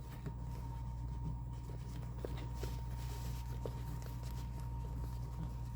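Faint rustling and small soft ticks of cross-stitch fabric and its fleece padding being rolled up by hand, over a steady low electrical hum.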